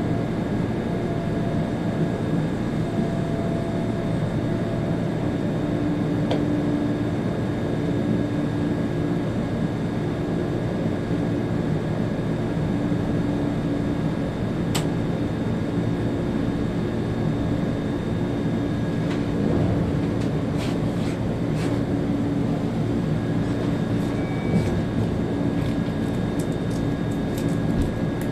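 ÖBB Railjet train running at speed, heard from the driver's cab: a steady rumble with a hum of several steady tones. A single sharp tick about halfway through and a scattering of short ticks in the last third.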